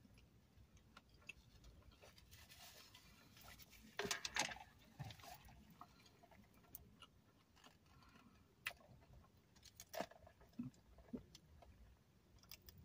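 Faint close-up eating sounds: quiet chewing with scattered mouth clicks, and a louder crackly burst about four seconds in.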